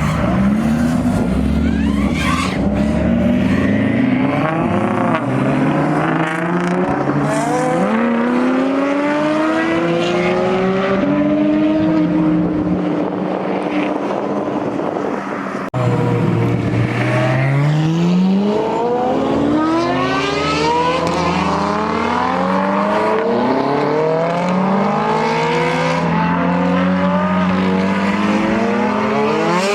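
Supercar engine accelerating hard through the gears, its exhaust note climbing in pitch and dropping back at each upshift, again and again. An abrupt cut about halfway through leads into another hard acceleration run.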